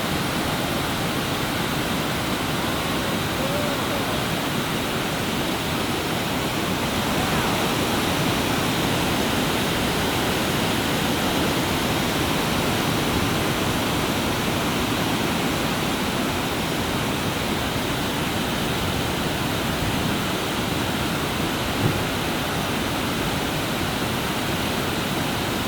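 Floodwater pouring over a dam spillway: a steady, even rush of falling water, with one short knock about 22 seconds in.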